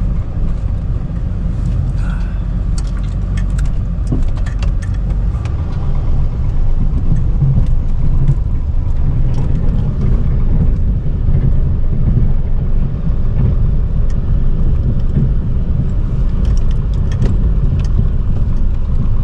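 Chevy Duramax turbodiesel V8 pickup running under way, a steady low rumble that grows louder about six seconds in, with light scattered clicks and rattles.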